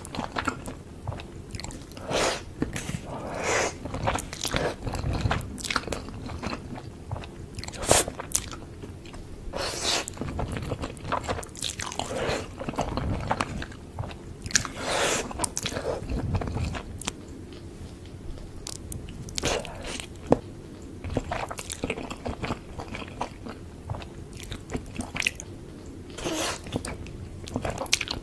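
Close-miked eating of spicy noodles: irregular chewing, biting and wet mouth sounds.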